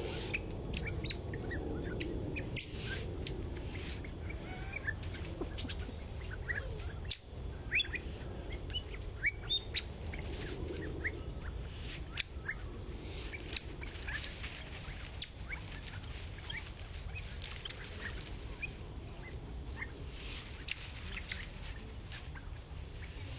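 Several birds chirping and calling in short, scattered chirps, with a few louder calls near the middle, over a steady low background noise.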